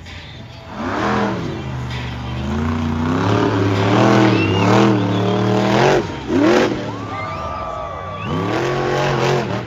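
Monster truck's big engine revving hard again and again, its pitch climbing and dropping with each stab of the throttle.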